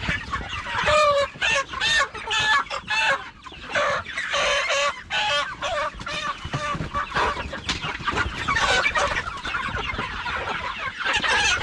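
A flock of Cornish Cross meat chickens clucking and squawking, many short overlapping calls with no let-up, as the birds are grabbed and picked up by hand.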